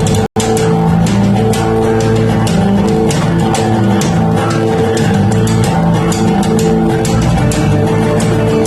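Live noise-rock playing by a band: two electric guitars hold loud, dense sustained chords, with frequent drum and cymbal hits. The sound cuts out completely for an instant just after the start.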